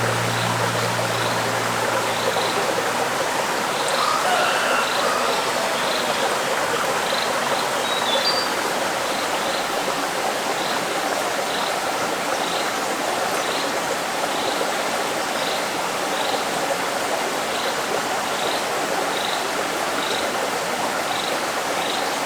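Steady rush of running water, like a stream, with a short high chirp repeating a little more than once a second and a few brief bird-like calls about four and eight seconds in.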